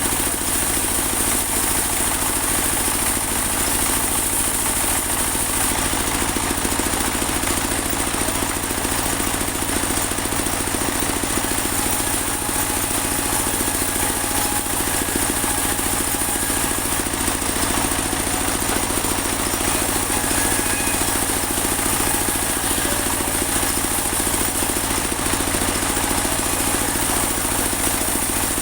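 Portable band sawmill running steadily: a continuous engine-driven mechanical noise with a steady high whine over it.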